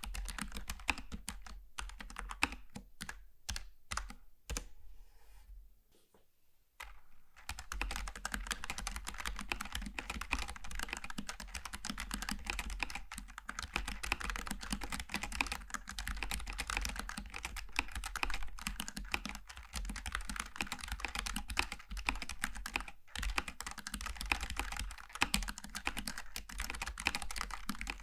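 Typing on a Logitech G915 TKL low-profile keyboard with tactile GL switches. Separate keystrokes come first, then fast, continuous typing from about seven seconds in.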